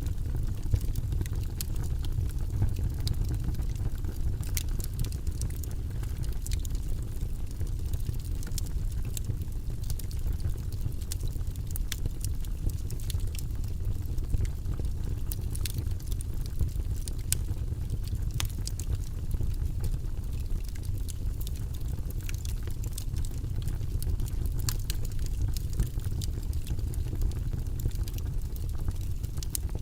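Log fire burning in a fireplace: a steady low rumble of flames with frequent sharp crackles and pops of the burning wood.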